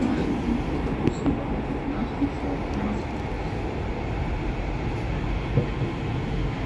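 Stadtbahn light-rail car running, heard from inside the passenger compartment: a steady low rumble of wheels on rails and the drive, with a few faint clicks.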